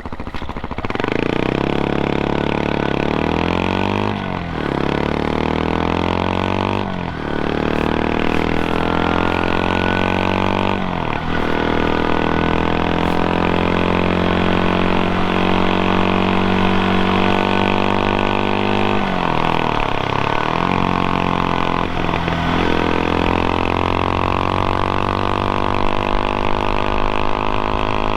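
2024 CFMOTO Papio SS's 126cc single-cylinder four-stroke engine, on its stock exhaust, pulling through the gears while riding: the note climbs and drops with upshifts about 4, 7 and 11 seconds in, then holds a steady cruise. Around twenty seconds in it falls away and climbs again, then settles.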